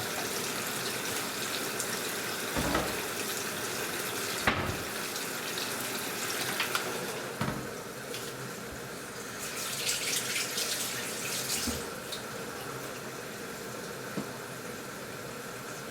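Water running into an AQUA washing machine's tub as it fills: a steady rushing hiss with a few soft knocks, a sharp click about four and a half seconds in, and a louder spell of splashing around ten seconds in.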